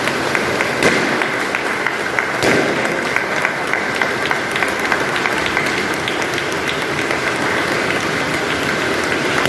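A small crowd applauding: many quick, overlapping hand claps, with a steady high-pitched tone running underneath.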